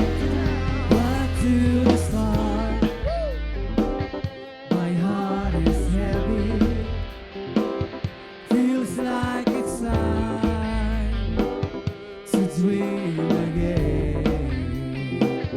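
Worship band playing a passage with no sung words: drum kit and bass under melodic lines, with a brief quieter stretch about halfway through.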